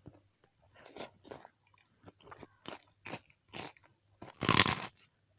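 A person biting and chewing crunchy food: a series of short crunches, with one longer, louder crunch about four and a half seconds in.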